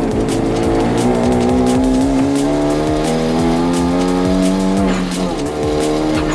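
Turbocharged four-cylinder engine of a 2014 Hyundai Genesis Coupe 2.0T pulling hard on track, its pitch climbing steadily for about four seconds and then dropping sharply about five seconds in. Background music plays over it.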